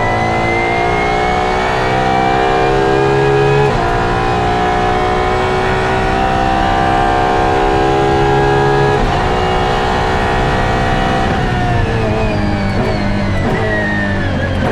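Apollo Intensa Emozione's 6.3-litre V12 accelerating through the gears of its Hewland six-speed sequential gearbox. The pitch climbs in each gear, with upshifts about four and nine seconds in, then falls as the car slows over the last few seconds.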